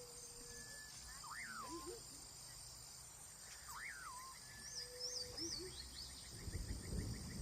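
Birds calling outdoors: a rising-then-falling call repeats about every two and a half seconds, with shorter higher chirps between, over a steady high insect buzz. A low rumble comes in near the end.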